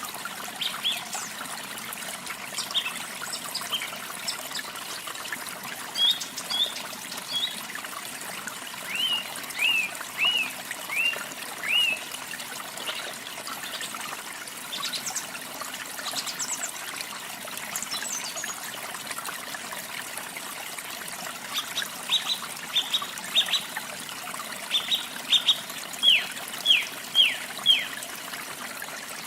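Steady splashing of a small waterfall or stream, with songbirds calling over it in short repeated phrases of chirps. A series of sharp down-slurred notes comes about a third of the way in, and a longer run of loud repeated notes near the end.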